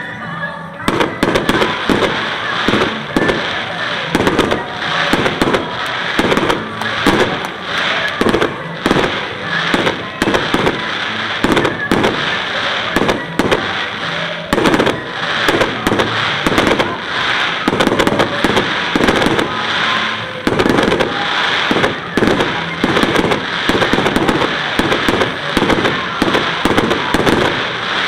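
Fireworks display: a dense, unbroken barrage of firework bursts, several bangs a second, starting about a second in.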